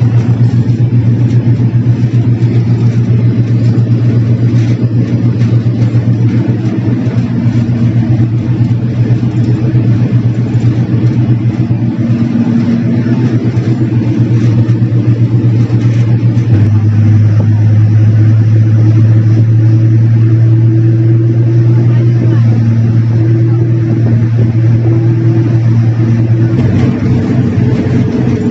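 Tugboat diesel engines running hard at high rpm, a loud steady drone, run up to blow soot out of the exhaust stacks that have been smoking black. The engine note drops slightly and grows stronger a little past halfway, then shifts back near the end.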